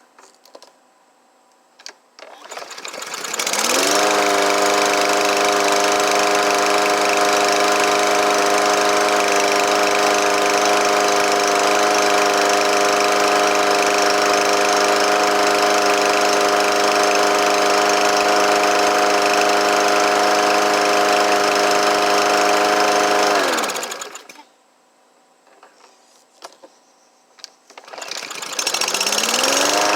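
Briggs & Stratton 550EX single-cylinder engine on a walk-behind lawn mower, started by a pull about two seconds in, catching and rising quickly to a steady, even run, then shutting off and winding down. It is restarted near the end and comes straight back up to speed. The engine now starts and runs after a no-start condition cured by a new choke shaft and valve adjustment.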